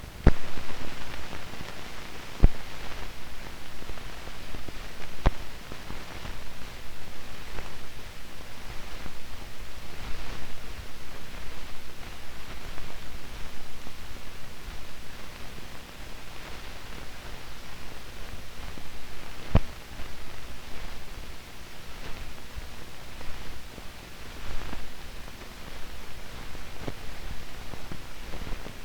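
Steady hiss and crackle of an old film soundtrack that carries no recorded sound, with a faint low hum and a few sharp pops.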